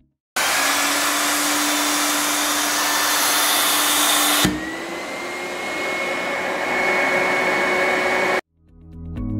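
Klenco Typhoon 322 wet/dry vacuum cleaner running: a steady rushing suction hiss with a motor whine, starting abruptly. About halfway through there is a brief knock, the sound drops a little in level, and the whine slowly climbs in pitch before the sound cuts off suddenly.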